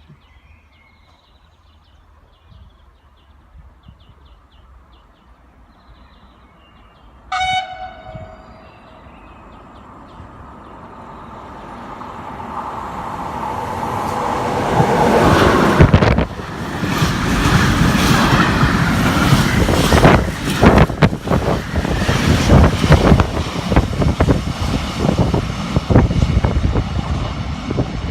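FS E652 'Tigre' electric locomotive gives one short horn blast, then hauls a freight train through the station: the noise grows as it approaches and becomes loud as it passes, the wagon wheels clattering over the rail joints.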